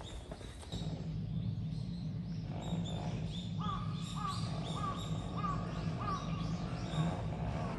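Birds calling outdoors: high chirps throughout, and about halfway through a run of about five evenly spaced calls, over a steady low hum that starts just under a second in.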